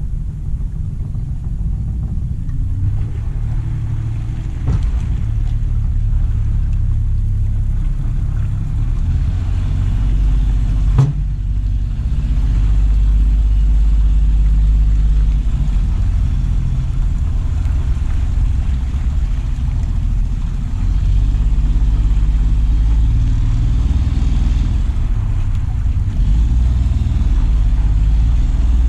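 An engine running steadily under way, a heavy low rumble that builds a little louder, with a sharp knock about eleven seconds in.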